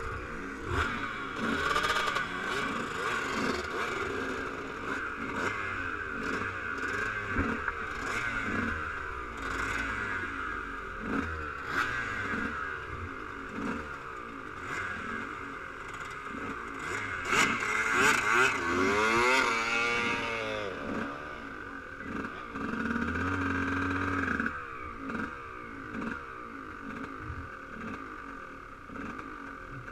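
Dirt bike engines running and revving, with one engine climbing steeply in pitch as it accelerates about two-thirds of the way through, then holding a steady note for a second or so.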